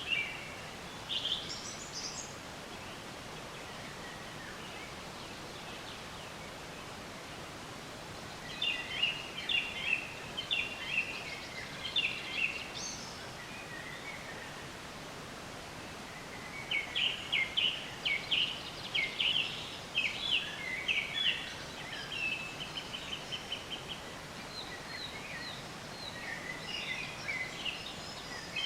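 Songbirds singing in phrases of quick, repeated chirps and short trills, coming in several bursts with gaps between them, over a steady background hiss.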